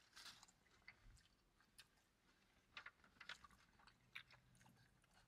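Faint chewing: scattered soft wet clicks and smacks of two people eating burgers and fries.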